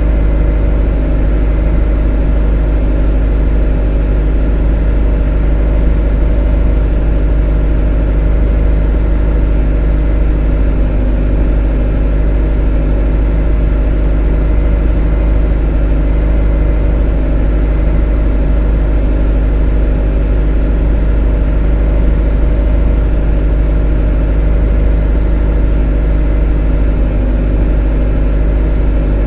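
A motor running steadily: an unchanging deep drone with a constant hum of steady tones over it.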